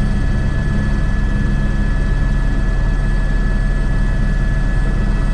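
Airbus H125 helicopter in flight, its single turboshaft engine and rotors running steadily: a constant low rotor drone with a steady high turbine whine over it.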